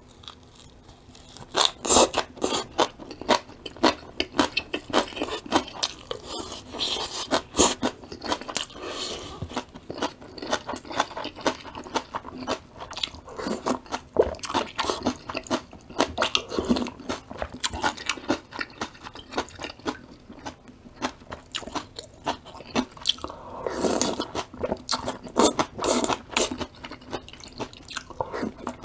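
A person chewing crunchy vegetables close to the microphone, with a rapid, irregular run of wet crunches and bites.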